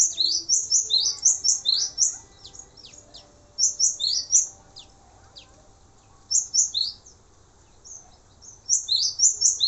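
Male cinereous tit (glatik batu) singing in bursts of rapid, high chirping notes: four phrases with short pauses between them.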